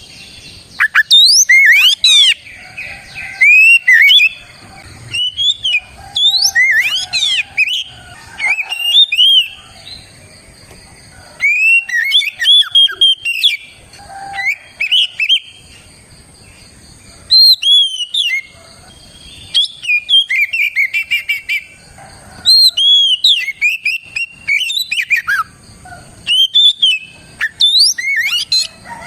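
Oriental magpie-robin (kacer) singing loudly: phrases of clear, rapidly gliding whistled notes, each one to three seconds long, separated by short pauses.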